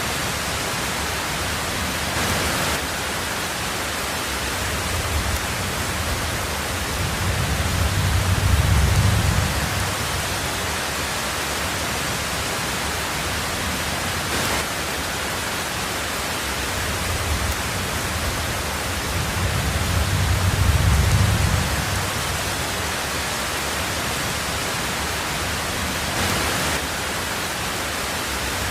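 Heavy rain on a tin roof, a steady hiss. Twice, about twelve seconds apart, a low rumble of thunder swells and fades under it.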